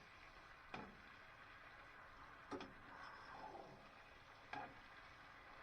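Three light knocks about two seconds apart over a quiet room, with a faint brief rustle between the second and third.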